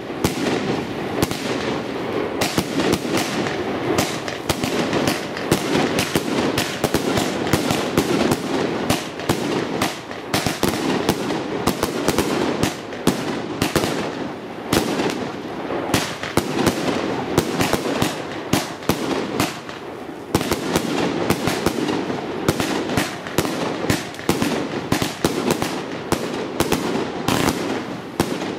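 Epic Fireworks Bunker Buster multi-shot fireworks cake firing, a dense stream of bangs and crackling star bursts, many per second, with brief lulls about a third and two thirds of the way through.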